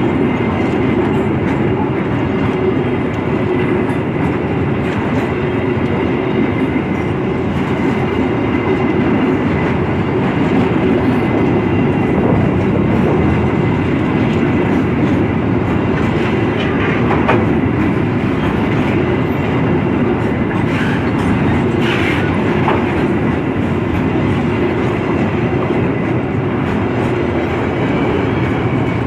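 Railway train running steadily along the track, a continuous loud rumble with its wheels clacking over the rail joints.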